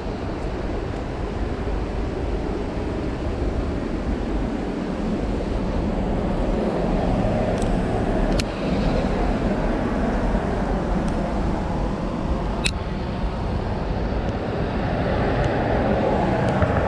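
City street ambience: a steady rumble of passing traffic, growing a little louder near the end, with a couple of sharp clicks.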